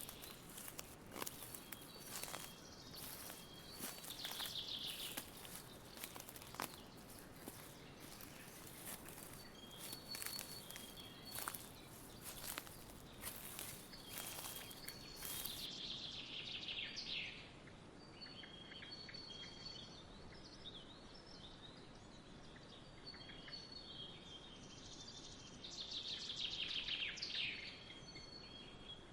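Songbirds chirping, with three quick falling trills. Scattered sharp clicks and crackles through the first half.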